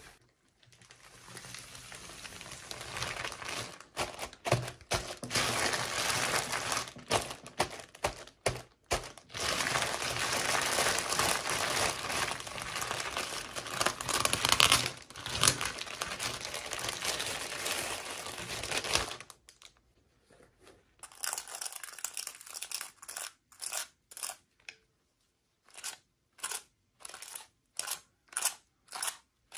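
Toy packaging crinkled and torn open by hand: dense crackling and tearing for most of the first twenty seconds, then a run of short crisp snips or crackles, about one or two a second.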